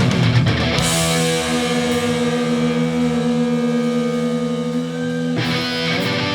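Hardcore punk band playing live: a guitar chord is held and left ringing for several seconds while the drums drop out, then the full band crashes back in near the end.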